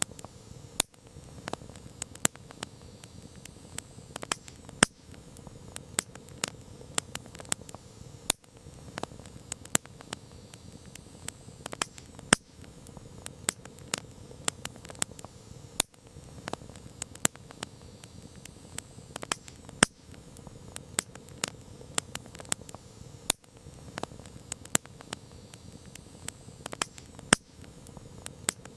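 Campfire wood burning, crackling and popping in irregular sharp snaps, several a second, over a steady low hiss of flames.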